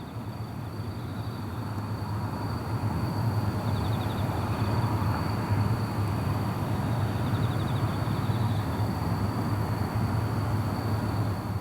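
Train running on the Sanyo Main Line at night: a steady low rumble that swells about three seconds in and holds, with a faint high tone above it.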